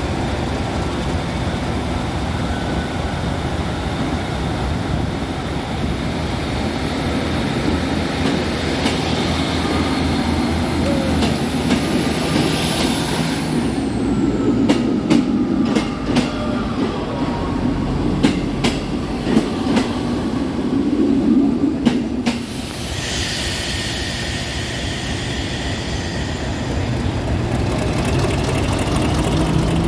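Train with Class 50 diesel locomotives on the move: a steady engine sound, a run of sharp clicks from the wheels about halfway through, and a higher wheel squeal in the second half.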